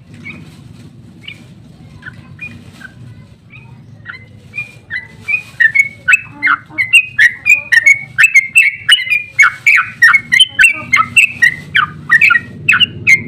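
Yellow-vented bulbul (trucukan) singing: scattered chirps at first, then from about halfway in a fast, unbroken run of loud chirping notes, several a second, the long rapid 'ropel' song.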